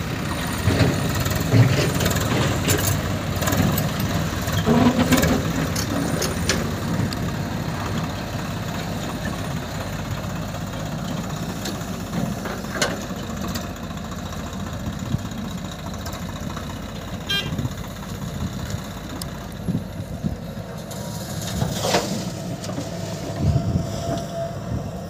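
Diesel engines of an excavator and a tractor running steadily, with scattered clanks and knocks as mud is loaded into the tractor's tipper trailer.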